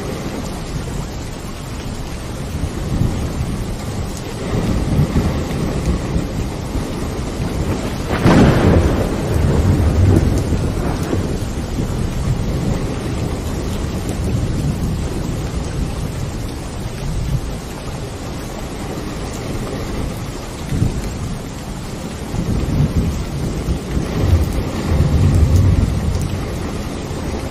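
Steady rain in a thunderstorm, with thunder rumbling through it: a sharp crack about a third of the way in that rolls into a long low rumble, and another loud low rumble near the end.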